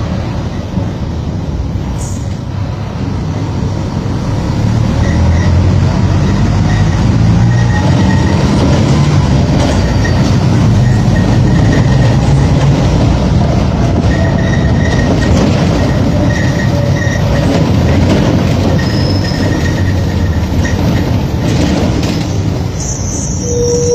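Mercedes-Benz OF-1722M bus's diesel engine running on the move: a low rumble that grows louder about four seconds in, with the engine note rising in pitch as the bus accelerates, then holding steady.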